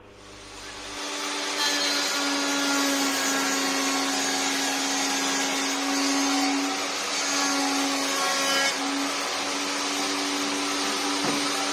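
Homemade table saw's electric motor starting and running up to speed over about a second, then running steadily with a high whine.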